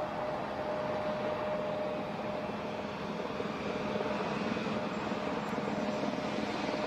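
Jet engines of a Boeing 777X running at taxi power: a steady rush with a steady whine that fades about two-thirds of the way through.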